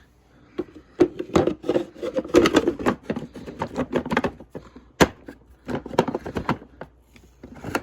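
Irregular clatter of knocks and clicks, as of things being handled and set about by hand, with no vacuum motor running.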